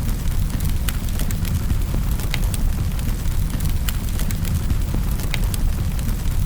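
Wood fire in a fireplace crackling: sharp irregular pops and snaps, several a second, over a steady low roar of the flames.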